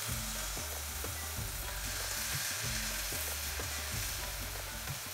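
Jalebi batter sizzling steadily as it deep-fries in hot oil in a pan, while fresh spirals of batter are piped into the oil.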